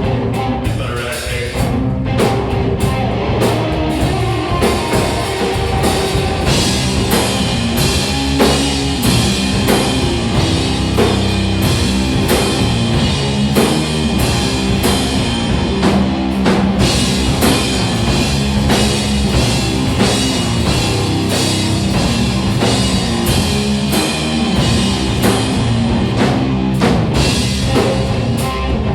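Live rock trio playing loudly: electric guitar, bass guitar and drum kit in a steady, driving groove with regular drum hits.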